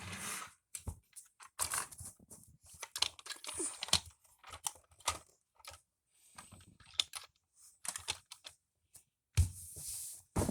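Toy trains and play pieces being handled and moved about: scattered irregular clicks and taps with stretches of rustling, loudest near the start and again about nine and a half seconds in.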